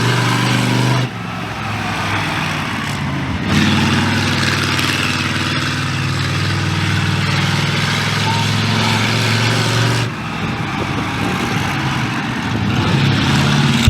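Classic car engines running steadily, with faint voices in the background. The sound changes abruptly three times: about a second in, a few seconds in and near the end.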